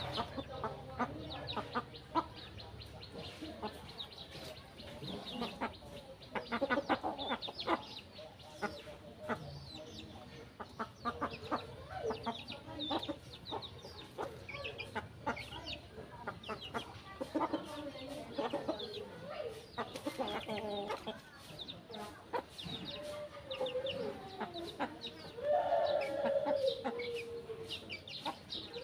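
Chickens clucking continually in short calls, with a longer drawn-out call near the end that falls in pitch.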